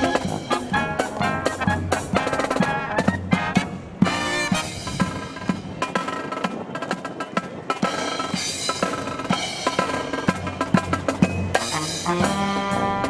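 Brass marching band playing a Disney medley, with trumpets and trombones over marching drums and a steady beat. About four seconds in, the music briefly drops away, then the full band comes back in.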